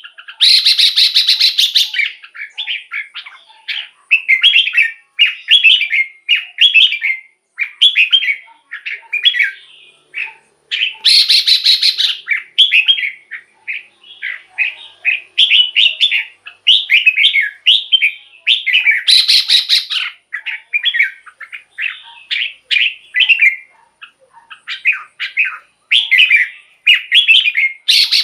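Red-whiskered bulbul singing a steady run of short, loud warbling phrases, one after another with short gaps. About every eight to nine seconds a harsher, raspy burst breaks in.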